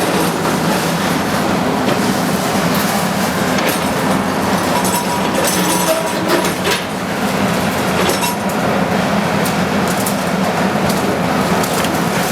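Bulldozer running steadily, a loud low rumble with scattered clicks and knocks, typical of a diesel crawler moving on its tracks.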